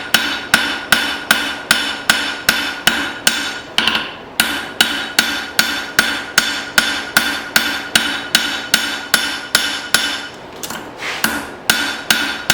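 Blacksmith's hand hammer forging steel from an old file on an anvil, about two and a half blows a second in an even rhythm, each blow ringing. The hammering breaks off briefly about four seconds in and again around ten seconds.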